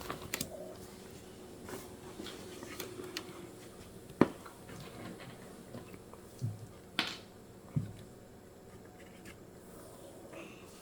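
A few sharp clicks and light taps over a faint steady hum. The loudest click comes about four seconds in, and a cluster of three follows a few seconds later.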